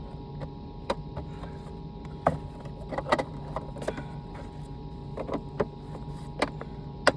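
Scattered knocks and clicks over a steady mechanical hum.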